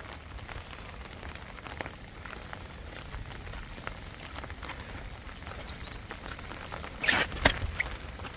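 Rain falling steadily, with scattered drips and taps, and a louder burst of splashing or clatter about seven seconds in.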